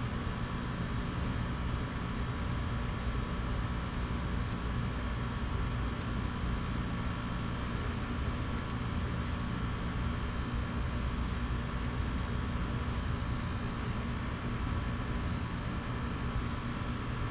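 A steady mechanical hum with a low drone. Scattered short, high chirps of hummingbirds at a feeder come through now and then in the first half.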